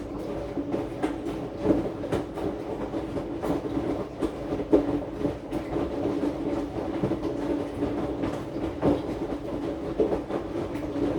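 AQUA AQW-DX12M front-loading drum washing machine turning its drum in one direction mid-cycle: a steady motor hum with irregular knocks as the load of clothes tumbles. The drum slows and stops near the end. The sound is picked up by a phone lying on the machine's top, so the cabinet's vibration comes through strongly.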